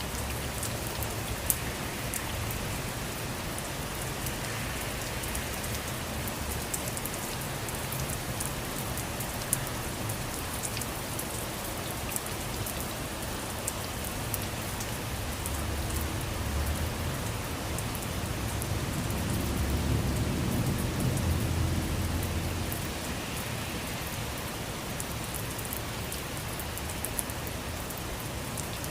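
Steady rain falling, with scattered sharp drop ticks. About two-thirds of the way through, a low rumble of distant thunder swells for a few seconds and fades.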